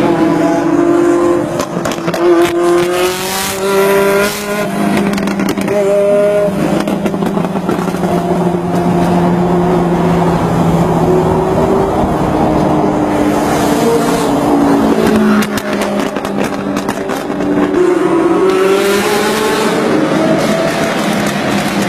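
Ferrari engine revving hard in a tunnel. Its pitch climbs sharply near the start, drops, holds and falls through the middle, then climbs again near the end, with the tunnel's echo around it.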